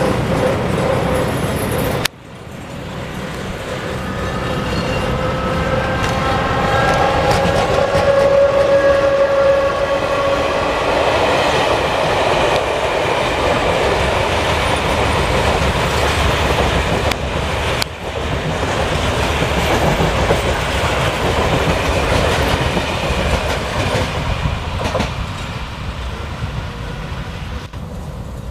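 ŽSSK class 362 electric locomotive hauling an express train as it accelerates: several whining tones rise in pitch over several seconds, over the rumble and clatter of wheels on the rails. The sound breaks off abruptly about two seconds in and again briefly later on, and it fades toward the end.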